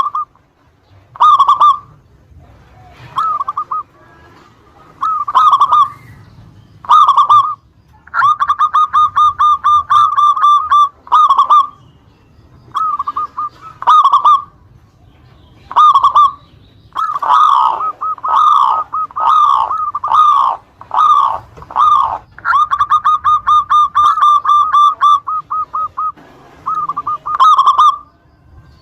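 Zebra dove (perkutut) singing its cooing song in short repeated phrases, with pauses between them. Twice, about a third of the way in and again past the middle, a phrase runs on into a long string of fast repeated notes.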